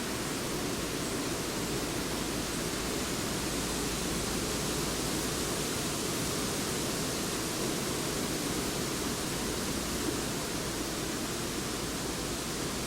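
Steady wind rushing through the trees, an even hiss with no birdsong standing out.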